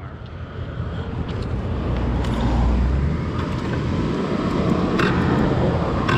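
Motorcycle riding noise: engine rumble mixed with rushing wind, swelling over the first two seconds and then holding steady.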